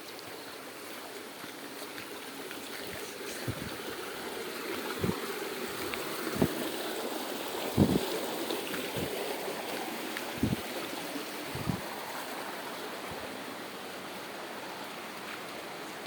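A stream's water rushing steadily, with a handful of short low thumps scattered through the middle, the loudest about eight seconds in.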